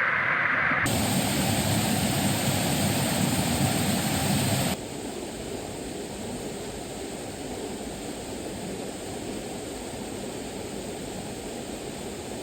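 Steady rush of water from a creek waterfall. The rush changes abruptly about a second in and drops to a quieter, even hiss just under five seconds in.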